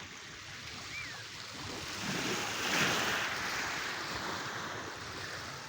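Sea waves washing onto the shore. One wave breaks and rushes up about three seconds in, then slowly draws back.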